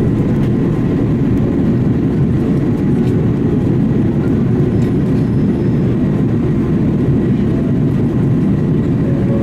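Steady low rumble of jet engines and rushing air heard inside an airliner cabin, unchanging in level.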